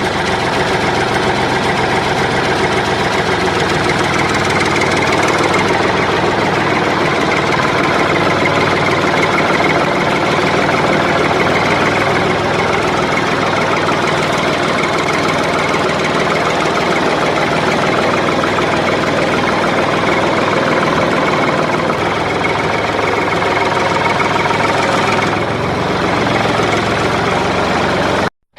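Engine running steadily with a rapid knocking beat, like a tractor's diesel idling. It cuts out abruptly for a moment just before the end.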